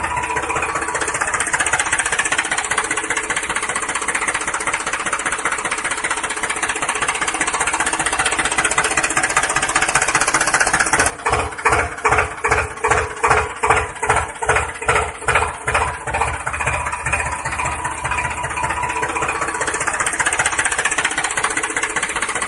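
Engine running steadily. About halfway through it changes to a slow, rhythmic chugging, roughly two or three beats a second, for about five seconds, then returns to a steady run.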